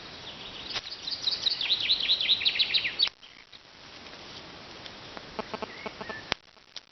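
A small songbird singing a fast run of short descending notes for about two seconds, cutting off abruptly. Later come a few faint, short clicks.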